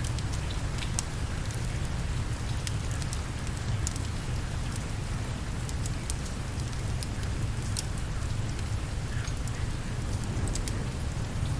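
Steady rain with a low rumble underneath, dotted all through with sharp ticks and crackles.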